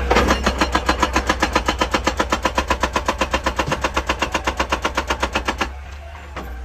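Excavator-mounted hydraulic breaker hammering rock in a fast, even run of about eight blows a second, over the steady low hum of the excavator's engine; the hammering stops abruptly about five and a half seconds in.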